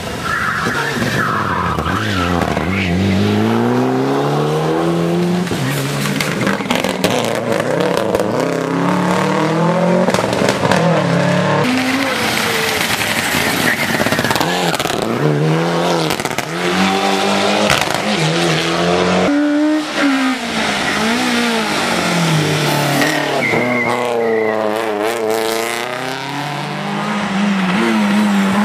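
Rally car engine revving hard on a hill climb, its pitch climbing through each gear and dropping at every shift, over and over, with tyre squeal.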